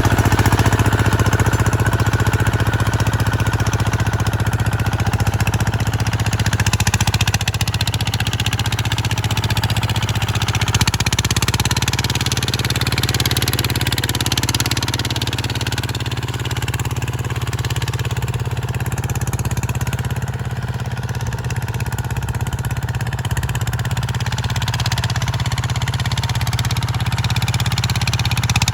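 An engine running steadily, with a fast, even pulsing beat that holds throughout.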